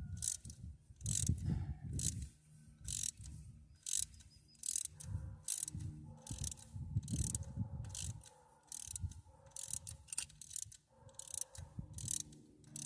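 Socket ratchet wrench being worked in quick repeated strokes, about two clicking strokes a second, while bolts are run in on the engine. A faint steady hum runs underneath from about five seconds in.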